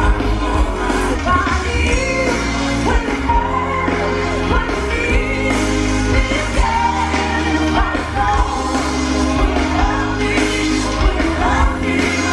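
Live pop music over a loud sound system: a singer's voice carries the melody over a heavy, steady bass line and band.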